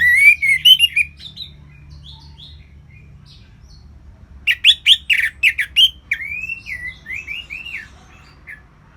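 Orange-headed thrush singing: quick runs of loud whistled and chirping notes, one at the start and a longer one through the middle, with softer scattered notes between them.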